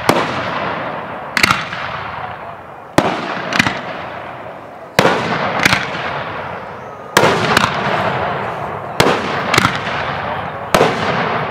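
Aerial fireworks bursting in a steady series. About every two seconds comes a sharp bang, then a second crack about half a second later, each followed by a fading rumble.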